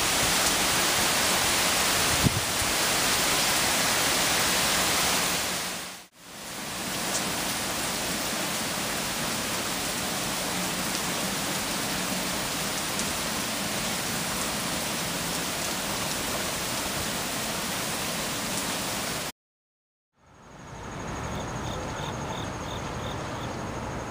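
Heavy rain pouring down steadily, a dense hiss, with a single knock about two seconds in. Near the end the rain sound cuts out and gives way to a quieter outdoor background with a steady high insect trill and a few quick chirps.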